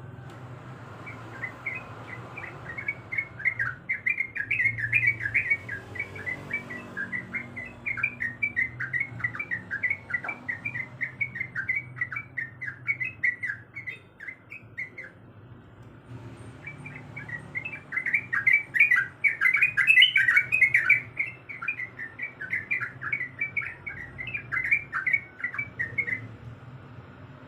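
Yellow-vented bulbul singing a fast, bubbling chatter of short notes, with a brief pause about halfway, then a louder run that stops shortly before the end.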